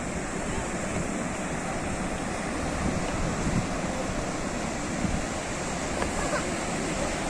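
Sea surf washing onto a shore: a steady, continuous rush of waves.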